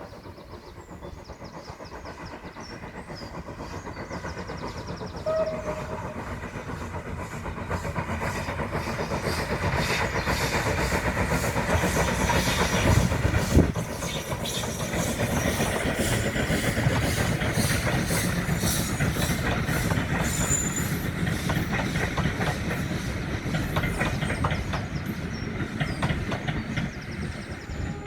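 A train running by on the line, growing louder over about the first ten seconds and then staying loud, with a fast clatter of wheels on rails.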